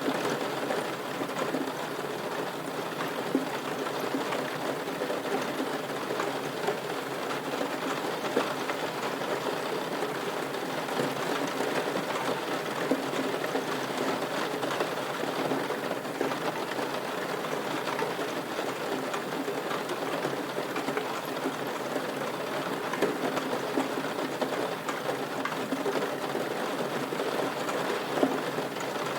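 Steady rain falling, a dense, even patter of drops with a few louder ticks now and then.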